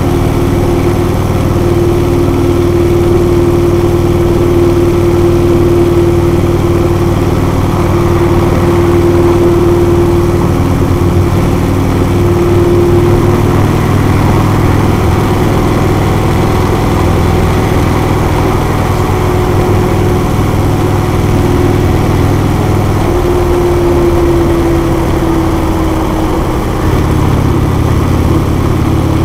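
Harley-Davidson Road King's V-twin engine running steadily at highway cruising speed under a hiss of wind and road noise. The engine note dips and shifts near the end.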